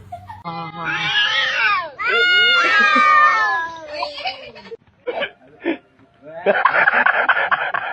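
A cat meowing in two long, drawn-out cries, the first rising then falling in pitch, the second louder and sliding slowly down. A few short sharp sounds follow, and a dense, noisy stretch of sound comes near the end.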